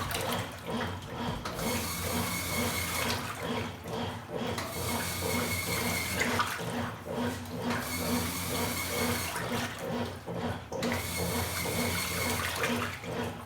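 Top-loading washing machine (LT06) agitating a load in water: steady rhythmic churning and sloshing, swelling in stretches of a few seconds with short lulls between, a thin motor whine sounding in each stretch.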